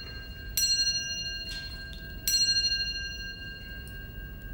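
A clock striking the hour: two clear, ringing bell-like strokes about 1.7 s apart, each fading slowly.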